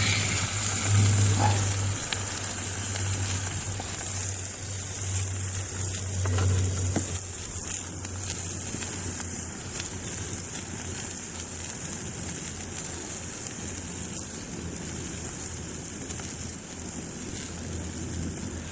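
Steak sizzling on an iron griddle plate over a campfire, a steady hiss that slowly eases off.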